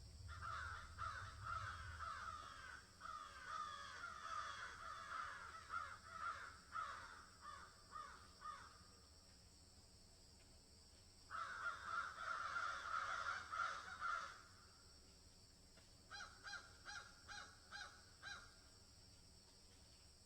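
Birds calling in bouts of harsh, repeated calls: a busy stretch for the first nine seconds or so, a dense burst in the middle, then about seven short, evenly spaced calls near the end.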